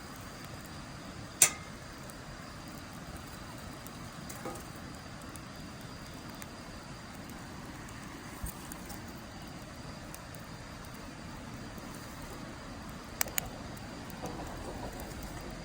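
Wood fire burning in a steel fire pit, with a steady hiss and scattered crackles: one sharp, loud pop about a second and a half in, a few fainter ones, and two quick pops near the end.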